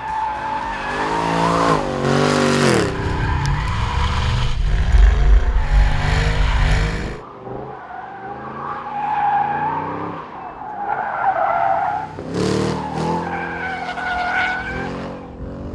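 Holden Commodore VFII SS-V's 6.2-litre V8 revving up and down hard as the car slides through corners, with the tyres squealing. The engine eases off about seven seconds in, leaving a wavering tyre squeal, then comes back on near the end.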